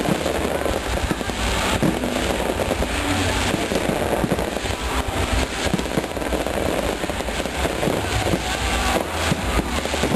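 Fireworks display going off: a continuous barrage of bangs and crackling.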